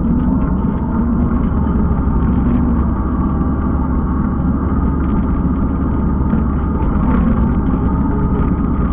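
Kubota skid steer's diesel engine running steadily as the machine works.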